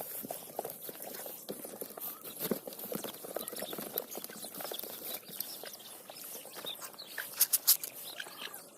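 Birds and rabbits moving about in their pen: scattered small taps, scratches and rustles, with a quick run of sharper taps near the end.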